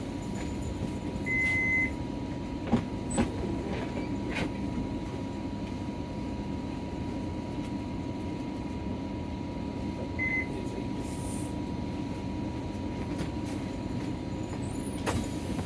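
Interior running noise of a Nissan Diesel PKG-RA274KAN city bus under way: a steady low engine and road rumble with a faint constant high tone. A short beep sounds about a second and a half in and again about ten seconds in, and a couple of sharp knocks come around three seconds in.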